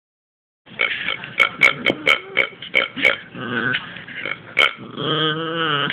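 Miniature pinscher making a rapid run of short, throaty gulping and clicking sounds, then near the end a long, wavering pitched vocal sound.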